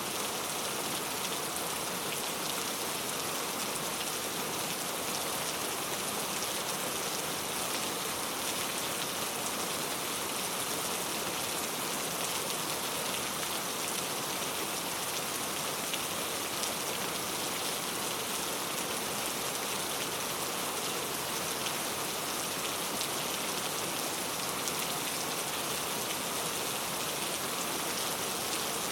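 Steady rain falling: an even hiss of many drops with faint individual taps, unchanging throughout.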